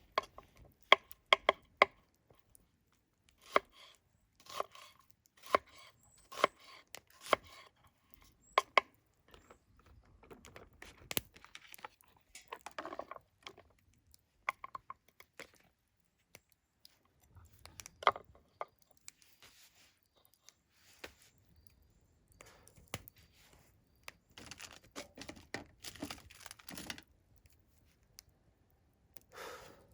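A knife chopping food on a cutting board: sharp, separate knocks, several in quick succession in the first few seconds and then spaced further apart. Between the knocks there are spells of rustling and handling as the ingredients are moved about.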